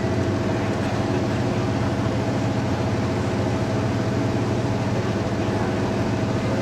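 Engine idling steadily, an even drone with no crashes or revving.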